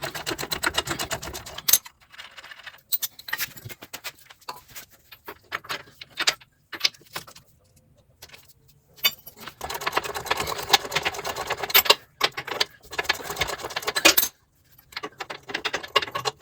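Ratchet wrench with an 18 mm socket clicking rapidly as it spins off the nuts at the bottom of a strut, in several long runs with scattered single clicks and metal taps between them.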